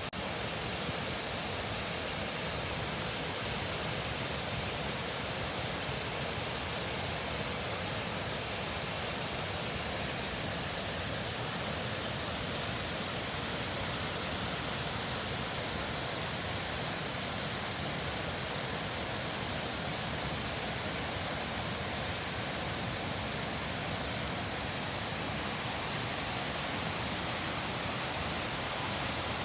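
Steady rush of a tall single-drop waterfall in full flow, swollen by winter rain.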